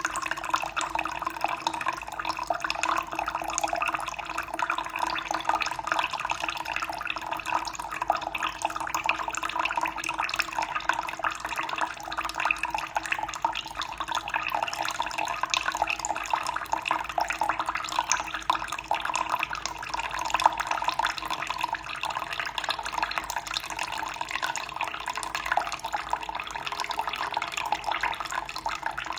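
Running water splashing steadily, a continuous trickling and spattering with no let-up.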